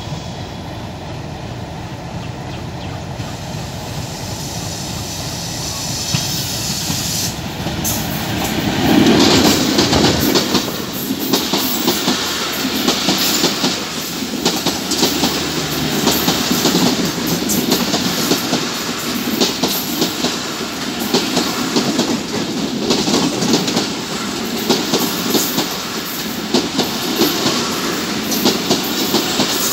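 Passenger train of the Rupsha Express running along the track close by. A low rumble builds over the first several seconds, then from about nine seconds the coaches clatter past, their wheels clicking over the rail joints in an uneven rhythm with some wheel squeal.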